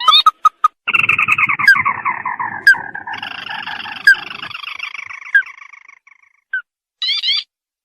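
Recorded lure call of a sintar, the red-eyed crake: a few short clipped notes, then a long chattering trill that slides down in pitch and fades out over several seconds. A quick run of rising notes follows near the end.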